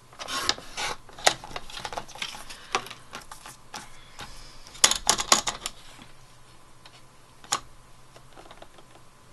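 Scissors snipping cardstock and paper being handled: scattered sharp clicks and short rustles, with a quick run of snips about halfway through and a single snip near the end.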